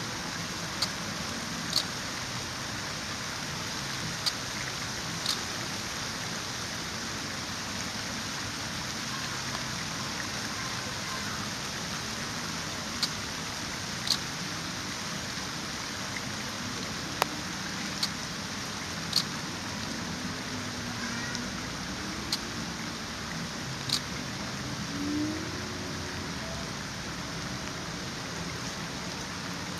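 Steady rain falling, an even hiss, with a sharp tick every second or several seconds, most of them in the first half.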